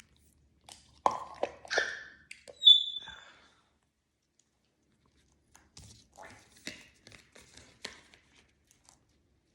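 Picture cards being handled and set out between prompts: scattered taps, clicks and rustles. A short, steady, high whistle a little under three seconds in is the loudest sound.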